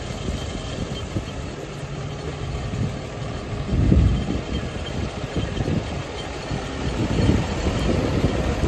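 New Holland T7-210 tractor's six-cylinder diesel engine running steadily, with brief louder low surges about four and seven seconds in.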